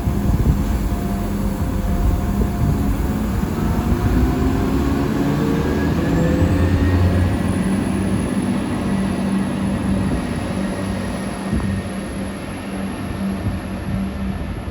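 Transport for Wales Class 175 diesel multiple unit pulling away from the platform, its engines running under power with a steady low drone. A whine rises in pitch from about four seconds in as it gathers speed, then levels off.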